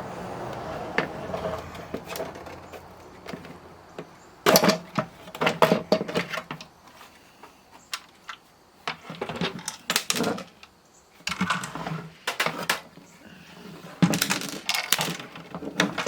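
Clicks, clinks and knocks of small metal and plastic parts being handled as an old 8-track player's case is taken apart. They come in irregular clusters after a quieter first few seconds.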